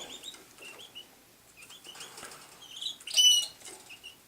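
Canaries in a cage giving short, high chirps, with one louder, clear call about three seconds in.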